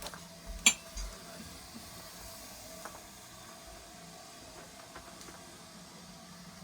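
Steady low hum and faint hiss inside a steam-hauled railway carriage, with a sharp click less than a second in and a softer knock just after it.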